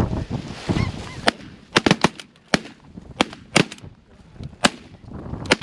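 Snow geese honking, then a rapid volley of about ten shotgun shots from several hunters firing at decoying geese, some shots close together in pairs and triplets.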